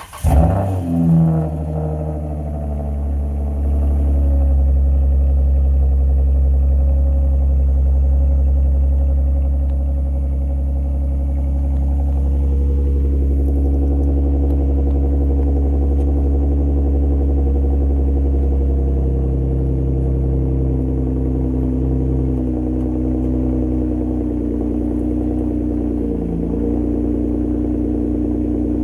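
Dodge Journey engine with a quick rise and fall in revs at the start, then a steady low drone whose pitch shifts a little now and then.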